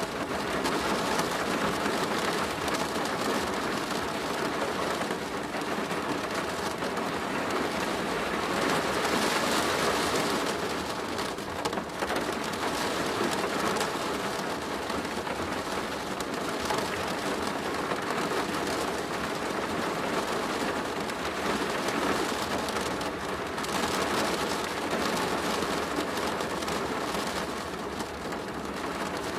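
Steady heavy rain falling on a plastic roof, a dense patter of drops that swells slightly in loudness now and then.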